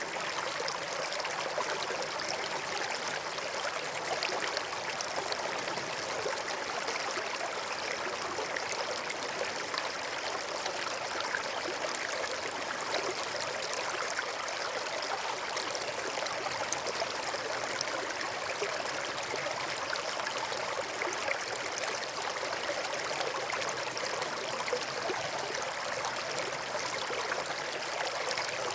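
A small stream flowing steadily over stones, an even rushing and babbling of water with no breaks.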